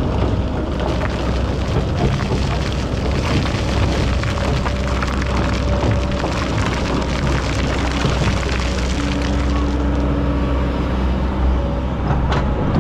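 Excavator's diesel engine running steadily, with a gritty crackling rattle of sand and stones being dug and moved. A brief steady whine comes in about three quarters of the way through.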